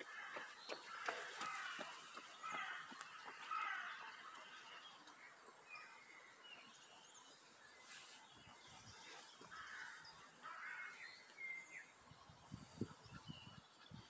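Faint outdoor birdsong: several birds chirping and calling in short scattered phrases, busiest in the first few seconds and again a little past the middle. A few soft low knocks come near the end.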